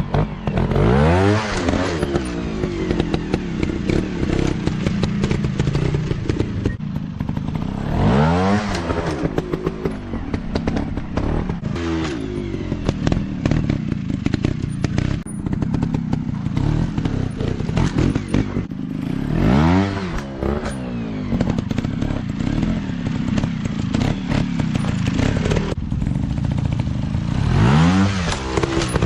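Dirt bike engine running with four sharp revs that climb in pitch and drop back, spaced about eight to eleven seconds apart. Between the revs it keeps running with a rattly, clattering sound.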